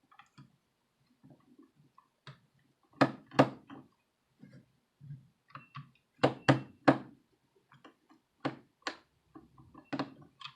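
Small screws and a screwdriver clicking and knocking against a mini wireless speaker's plastic case as the screws are set in, a scatter of sharp knocks, several in quick pairs, between quieter handling rustles.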